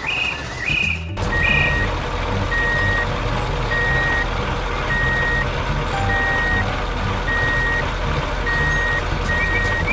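A heavy vehicle's reversing alarm beeping at an even pace, about one beep every 1.2 seconds, over a steady low engine rumble that starts about a second in. A few short rising chirps come before it.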